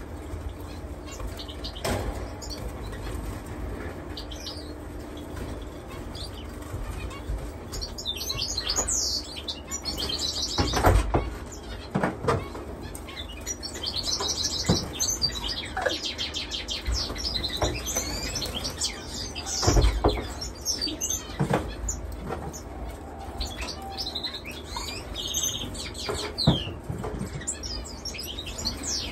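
Many caged finches chirping and trilling in high short notes, with fluttering wings and several sudden thumps scattered through, over a steady low hum.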